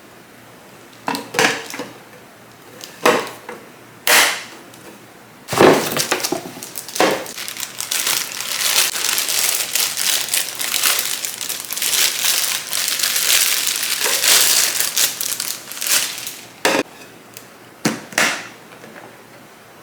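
Plastic packaging crinkling and rustling as it is handled: a few short crackles, then about ten seconds of steady crumpling, then a few more short crackles near the end.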